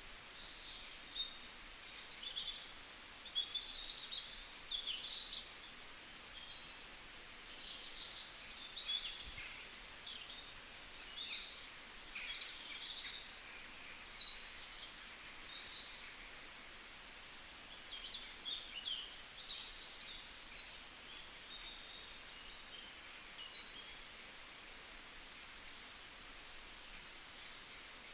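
Birds chirping and singing in short, irregular phrases over a steady background hiss.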